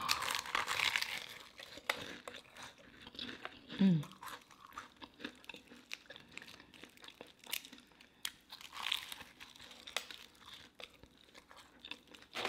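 Crispy deep-fried tacos being bitten and chewed, crunching and crackling close to the microphone, loudest in a burst of crunches in the first second. A short voiced hum about four seconds in.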